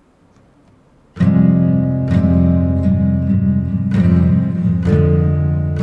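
Song intro: after a near-silent first second, loud strummed guitar chords come in suddenly, one struck roughly every second.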